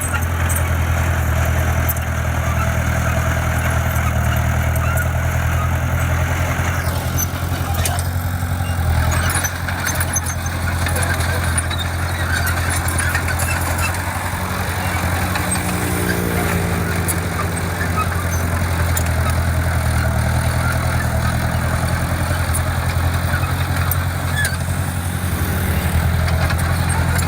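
Heavy construction machine's diesel engine running steadily at a low, even hum, with scattered faint clicks and clanks over it.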